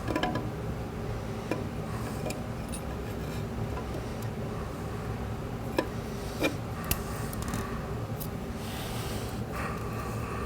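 Transmission clutch plates and steel plates being set one by one into a clutch pack: a few scattered light metallic clicks and clinks, the sharpest a little past halfway, over a steady low hum.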